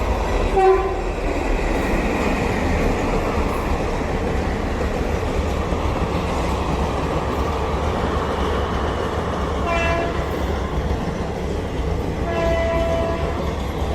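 A train running by with a steady, loud rumble of wheels on rail. Its horn sounds briefly near the start, again at about ten seconds, and once more for about a second near the end.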